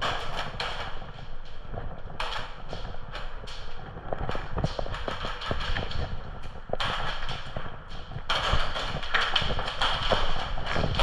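Irregular footsteps and knocks of someone moving on foot over rough ground, with a scratchy hiss of brushing or wind on the microphone growing from about eight seconds in.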